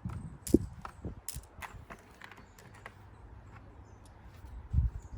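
Small stones clicking against one another as they are picked up and handled, several sharp clicks in the first two seconds, then a low thump near the end.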